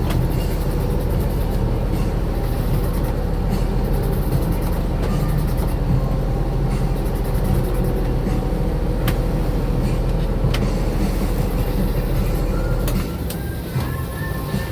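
Fishing boat's engine running steadily under way, then easing off sharply near the end.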